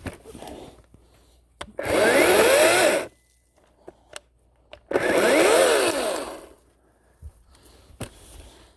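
Ryobi 40-volt cordless electric chainsaw running in two short bursts, its motor and chain whine rising and falling in pitch with each squeeze of the variable-speed trigger, with a few sharp clicks in between.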